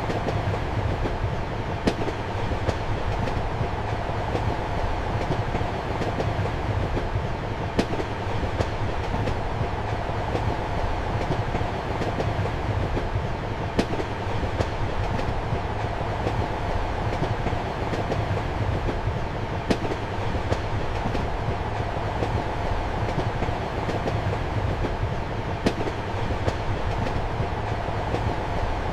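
Passenger train running steadily, heard from inside a compartment: a continuous low rumble and hum with sharp clicks of the wheels over rail joints, the sharpest coming about every six seconds.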